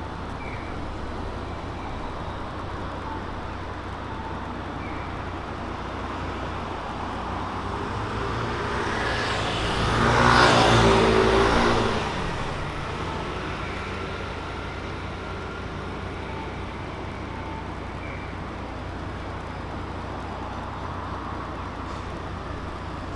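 A car drives past on a city street, growing louder to a peak about ten seconds in and fading away a few seconds later, over a steady low street hum.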